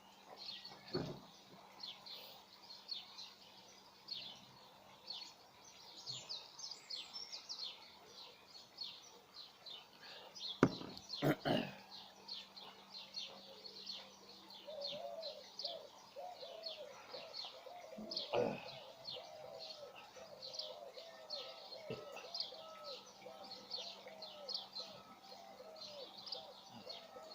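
Garden birds chirping and singing, a rapid stream of short high chirps with a lower, repeated warbling phrase joining in during the second half. A few sharp knocks come about ten to eleven seconds in.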